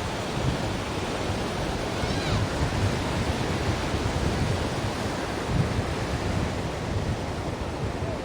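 Ocean surf washing steadily onto a shore. A faint, brief curving call sounds about two seconds in.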